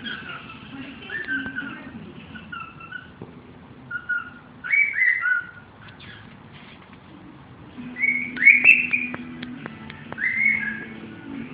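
Cockatiel whistling a song of short rising and falling notes in several bursts, the loudest about eight seconds in.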